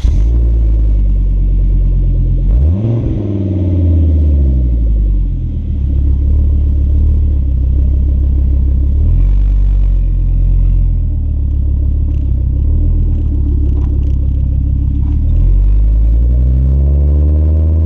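2002 Volvo V70 2.4T's turbocharged five-cylinder engine running under way, a deep steady rumble whose pitch rises and falls several times, climbing about three seconds in and again near the end.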